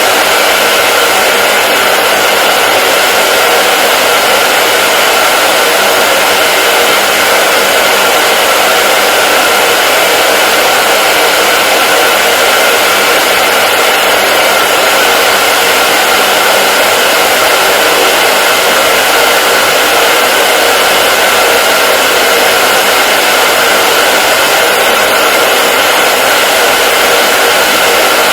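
Hair dryer running steadily, a constant loud whooshing rush with a faint steady whine and no change in speed.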